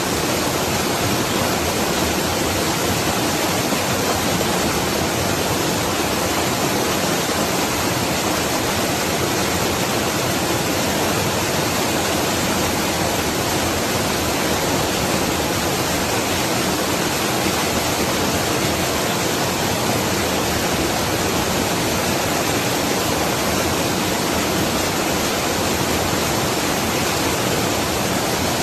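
Waterfall rushing and splashing in a steady, unbroken roar of falling water that does not change throughout.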